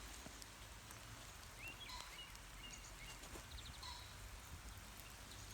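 Steady, faint patter of rain, with a few faint bird chirps about two seconds in and again past the middle.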